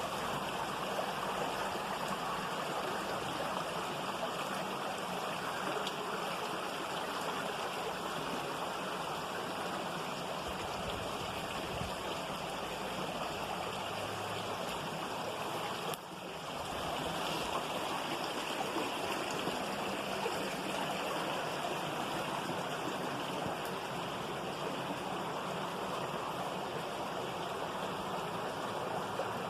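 Water of a stream flowing steadily over rocks, a continuous rushing with no pauses except a momentary drop about sixteen seconds in.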